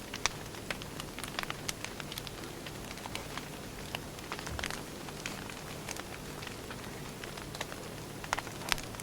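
Burning firewood crackling: irregular sharp pops and snaps, a few louder than the rest, over a steady soft hiss.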